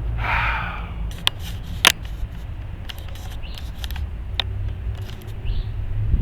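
A few sharp clicks of small hand-tool work on an RC helicopter's tail rudder assembly as it is tightened, the loudest about two seconds in, over a steady low rumble.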